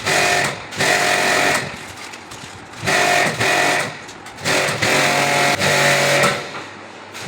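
High-pressure washer running in bursts, a steady electric motor hum and whine over the hiss of the water spray, starting and stopping several times.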